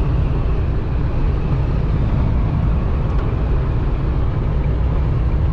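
Steady low rumble and road noise inside a semi-truck's cab at highway speed, driving in a strong crosswind.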